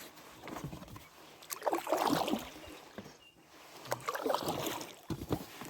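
Oars of a small rowboat pulling through the water, two main strokes about two seconds apart, each with a splashing swish and light knocks.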